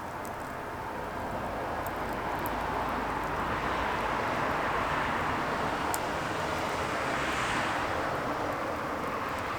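Burning firewood giving a few sharp crackling pops, under a rushing noise that swells over several seconds and then fades away.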